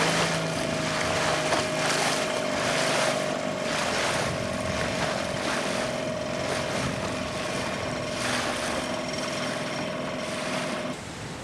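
An engine running steadily under loud rushing wind or water noise, with a constant hum. It cuts off suddenly near the end.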